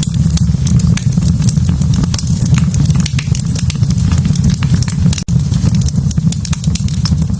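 Wood fire burning in a fireplace: a steady low rumble of flames with many sharp crackles and pops throughout. The sound cuts out for an instant about five seconds in.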